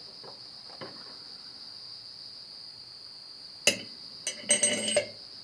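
Steel disc-harrow parts clinking as a washer and disc blade are handled: a sharp clink about three and a half seconds in, another shortly after, then a brief ringing metal clatter near the end. A steady high-pitched chirring sits underneath.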